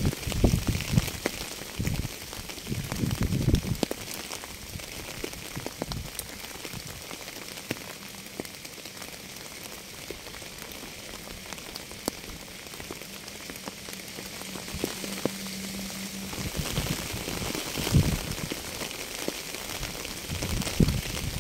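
Rain falling: a steady hiss with many separate drops ticking. Low rumbling swells come and go in the first few seconds and again near the end, and a faint low hum runs through the middle.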